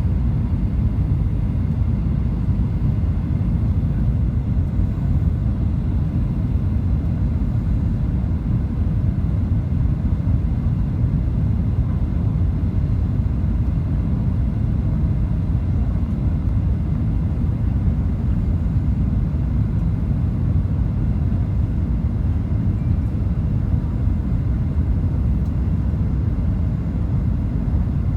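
Steady low rumble of cabin noise inside a Boeing 737-900 airliner: its engines and airflow heard from a passenger seat.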